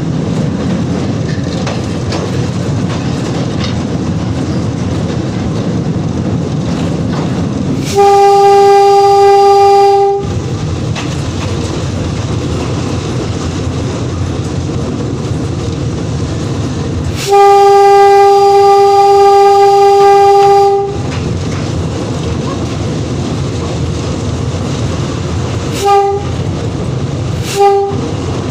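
Train running with a steady rumble while its horn sounds one note: two long blasts, then two short toots near the end.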